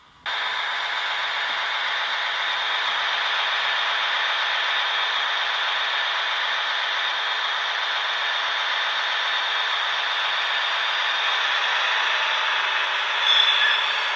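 Model BR 215 diesel locomotive's digital sound running steadily through its small onboard speaker, thin with little low end; it cuts in abruptly just after the start, and there is a brief louder sound near the end.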